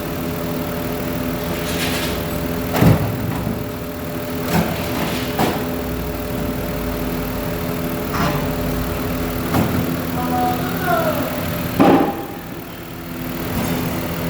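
2006 Ford Five Hundred's 3.0-litre V6 engine idling steadily, with about six sharp clicks or knocks at uneven intervals over the steady engine note.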